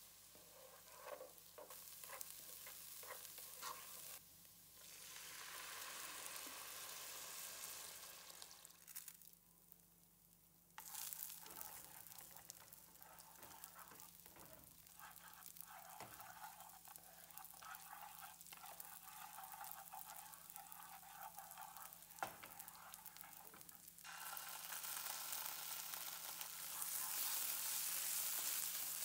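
Food frying in hot oil while being stirred: washed red lentils are turned in oil, then rice is stirred with tongs in a non-stick pan and tomato paste is worked in. A steady sizzle with scrapes and taps of the utensils; it drops away briefly around nine seconds and gets louder in the last few seconds.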